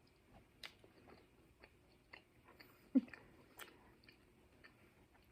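Quiet mouth noises of someone chewing a bite of a Reese's Outrageous candy bar: soft, irregular wet clicks, with a brief voiced hum about three seconds in.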